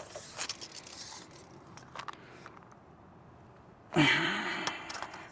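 Tape measure and asphalt shingle being handled: light clicks and scrapes, then a louder rushing scrape about four seconds in that fades over about a second.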